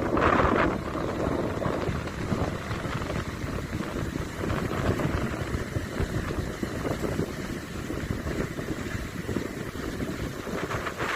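Sea surf with wind buffeting the microphone: a steady low rumbling noise without distinct calls or tones.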